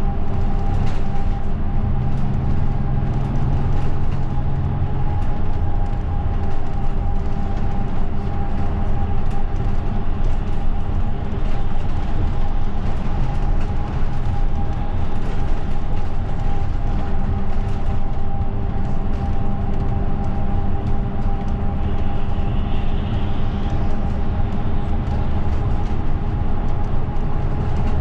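Route bus heard from inside the passenger cabin: steady engine and road rumble with a constant mechanical hum.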